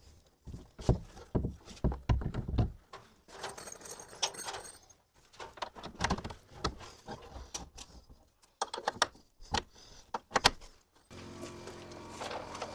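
Heavy exterior door slab being handled and set onto its metal hinges: a string of irregular knocks, clunks and light metallic rattles. Near the end a steady hum starts.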